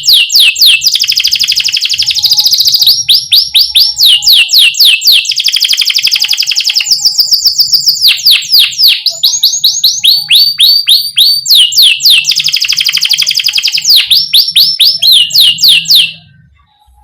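Domestic canary singing continuous rolling trills, each a fast run of repeated notes that sweep down in pitch, switching to a new phrase every second or two. The song stops abruptly about a second before the end.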